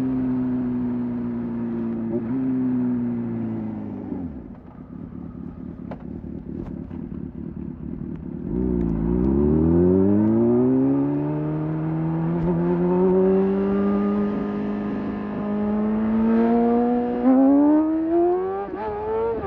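Motorcycle engine slowing, its pitch falling over the first few seconds and then running low and rough for a few seconds. About halfway through it accelerates, its pitch climbing steadily, with a few quick jumps in pitch near the end.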